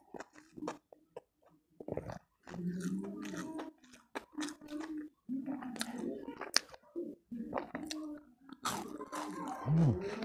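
A person chewing a mouthful of food close to the microphone: sharp crisp crunches and wet mouth sounds, broken by low hums.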